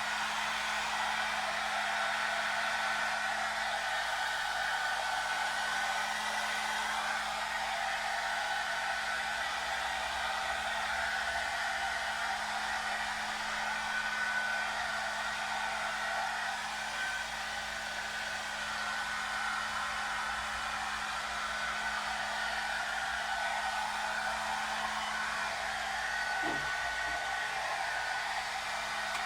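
Hair dryer running steadily: a continuous rush of air with a steady low hum under it.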